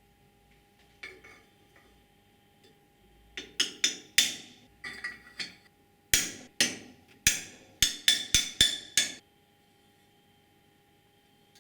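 A run of about fifteen sharp knocks at an uneven pace, each ringing briefly, like tool strikes on a workpiece. A faint steady hum lies underneath.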